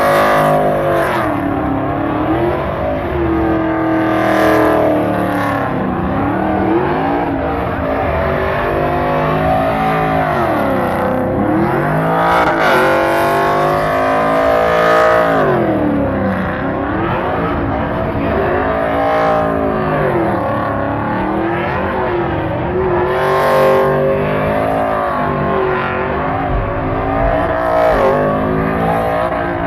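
Lowered pickup truck's engine revving up and down over and over, rising and falling every couple of seconds, as the truck spins donuts.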